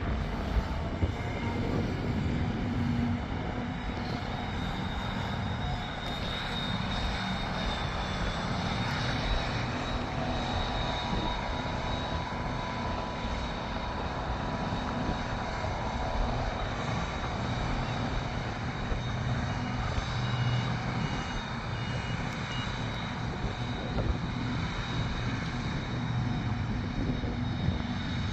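Heavy diesel farm machinery running steadily at work: the drone of a forage harvester and tractors, with a thin high whine held over it.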